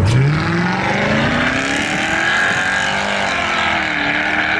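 Car engine accelerating hard, its pitch climbing steadily for about two seconds, easing briefly around three seconds in, then climbing again.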